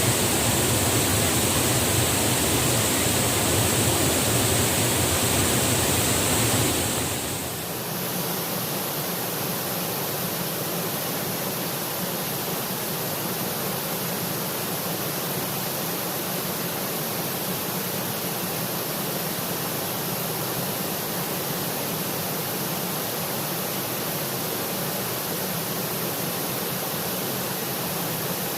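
Waterfall: a steady, dense rush of falling water. About seven seconds in, it turns slightly quieter and loses some of its low rumble, then holds steady.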